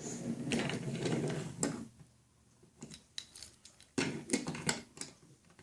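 Toy train's small geared motor whirring, with clicking and plastic clatter, in two spells: over about the first two seconds, then again about four seconds in.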